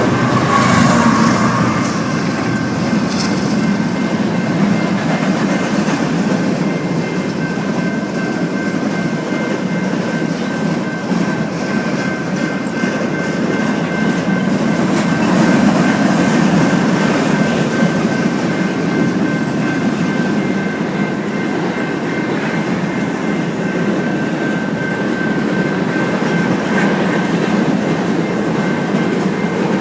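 A freight train's cars rolling past on the rails, a steady rumble of wheels with a faint, steady high whine, just after the locomotive's horn trails off at the start.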